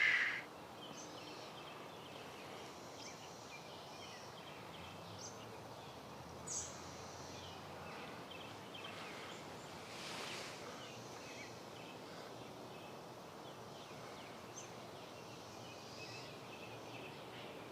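Outdoor ambience: a steady background hiss with many short bird chirps scattered through it, one sharper call about six and a half seconds in and a brief swell of noise around ten seconds.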